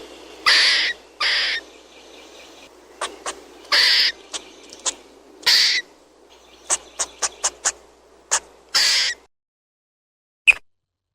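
Squirrel calling: harsh, rasping barks about half a second long, mixed with short sharp chips. Both stop about nine seconds in, after which there is a single chip.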